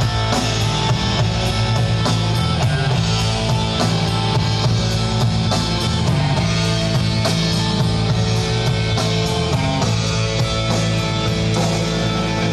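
Live rock band playing an instrumental passage: guitars over bass and drums with a steady beat.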